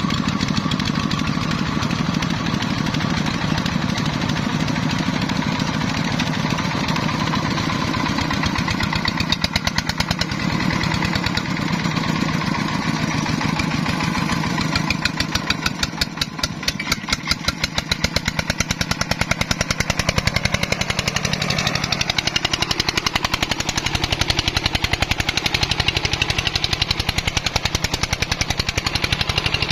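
Single-cylinder diesel engine of a công nông farm truck running with a rapid, even chugging beat. About halfway through the beat grows quieter and more separate for a few seconds, then the engine picks back up.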